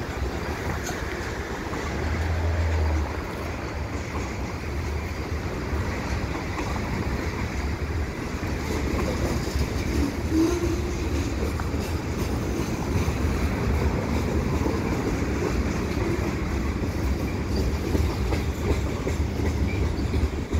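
Freight cars of a slow-moving CN mixed freight train, tank cars and covered hoppers, rolling past on steel wheels over the rails in a steady, continuous run.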